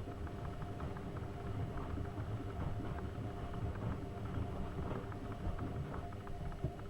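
AEG Öko-Lavamat 72520 front-loading washing machine running its wash cycle: a steady motor hum and low rumble with scattered light clicks and knocks.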